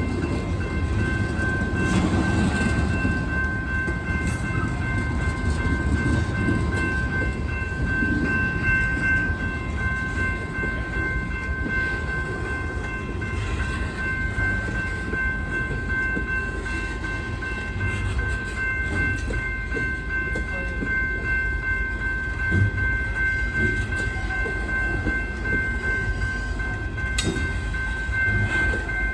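Freight train cars rolling past with a steady low rumble. Over it runs a constant high-pitched whine of several tones, and there is a single knock near the end.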